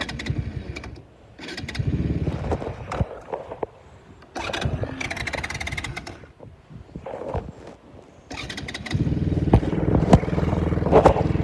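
A stalled ATV engine being restarted: several short bursts of cranking, then about three-quarters of the way through it catches and runs steadily. The quad keeps stalling.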